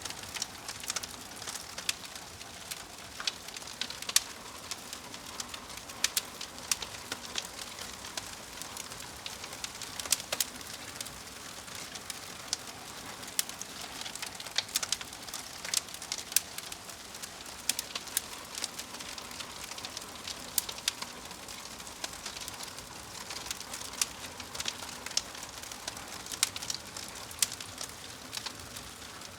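Wood fire crackling, with frequent irregular sharp pops and snaps over a steady hiss.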